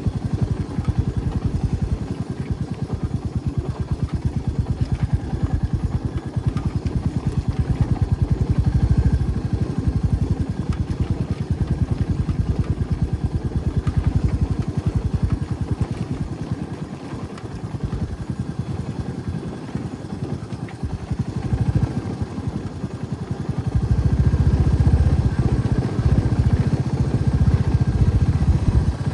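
Motorcycle engine running under way, a steady low pulsing drone that eases off in the middle and grows louder again near the end.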